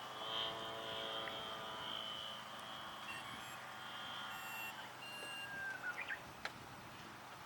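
Radio-controlled aerobatic model airplane's motor and propeller drone, an even-pitched hum that fades away over the first few seconds. After it come a few short high beeps and some clicks.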